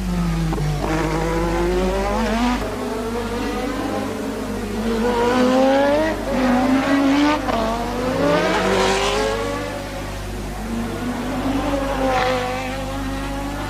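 Late-1980s Formula One cars at full throttle, engine notes climbing and dropping sharply with each gear change as they accelerate. Several cars overlap about five to nine seconds in, the loudest part, and the sound eases off toward the end.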